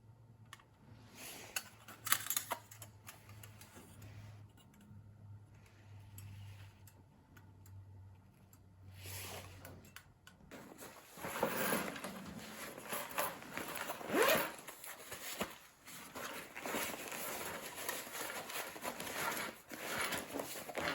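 A faint low hum with a few clicks, then from about halfway in, irregular bursts of rustling and scraping as things are handled.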